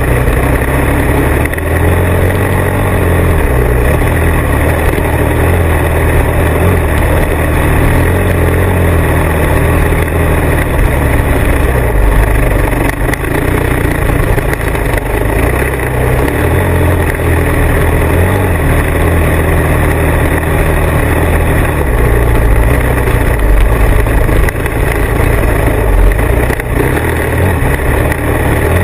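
Motorcycle riding along with its engine running steadily, heard through a bike-mounted or helmet-mounted action camera with heavy, fluctuating wind rumble on the microphone. The sound stays loud and unbroken.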